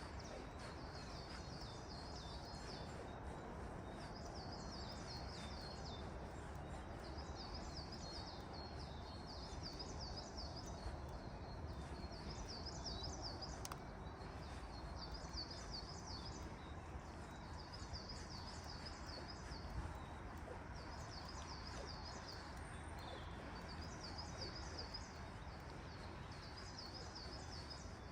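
A songbird singing: short phrases of rapid high notes, about one every two to three seconds, over a steady background hiss of the forest.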